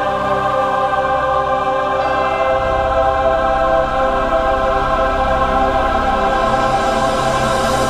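Choral music: a choir singing long sustained chords over an instrumental backing, with the bass shifting about two and a half seconds in.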